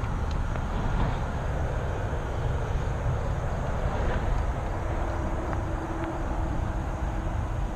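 Wind rumbling on the camera microphone of a recumbent bicycle underway, steady, with a few faint clicks.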